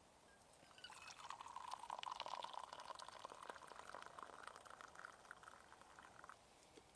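Liquid being poured steadily into a container, starting about a second in and stopping near the end. Its pitch rises slightly as the vessel fills.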